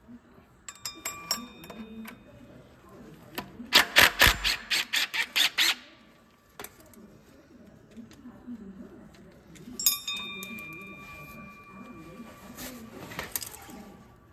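Ratchet wrench clicking in a quick run of about ten sharp clicks while the water pump's 10 mm bolts are worked. Metal tools or parts clink with a short ring near the start and again about ten seconds in.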